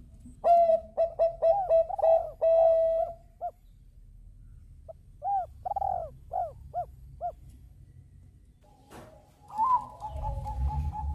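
Zebra dove (Bangkok-bred perkutut) cooing in two runs of quick, short, rounded notes. Near the end a long, steady, even note starts over a low rumble.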